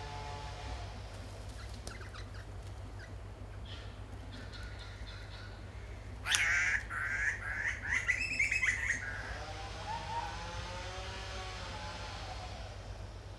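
Wild birds calling. A loud, harsh call repeats for about three seconds starting around six seconds in, and fainter wavering calls come before and after it.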